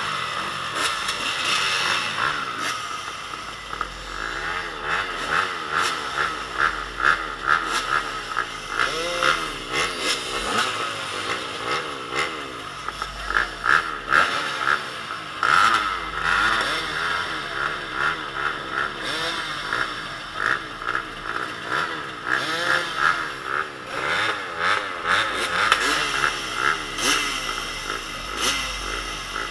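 Several motocross bikes running on a dirt track, their engines revving up and down over one another.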